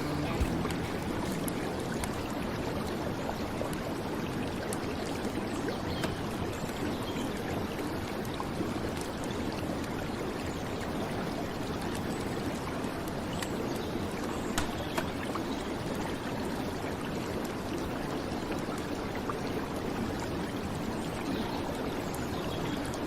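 River water flowing steadily, with rain falling on it: an even rushing wash with faint scattered drop ticks.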